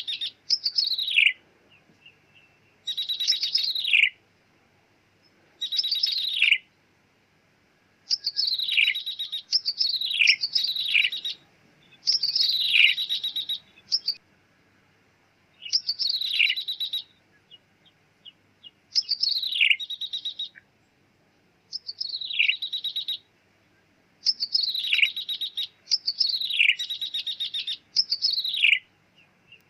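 Ciblek tebu, a prinia, calling repeatedly: phrases of about a second, each a quick falling sweep with a buzzy trill, coming every one to three seconds with short gaps between.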